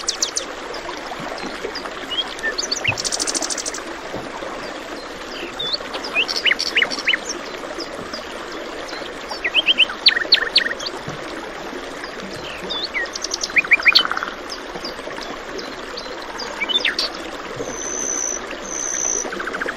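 Several birds chirping, with quick rattling trills and, near the end, two short high whistles, over the steady rush of flowing water.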